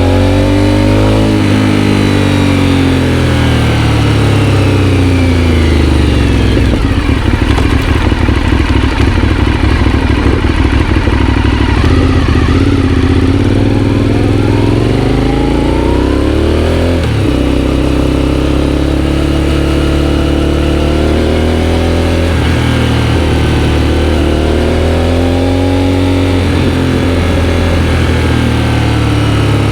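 Aprilia Shiver 750's V-twin engine through a GPR aftermarket exhaust, heard while riding. The engine note rises and falls repeatedly, with a rougher, choppier stretch in the first half and a quick sharp drop and recovery just past halfway.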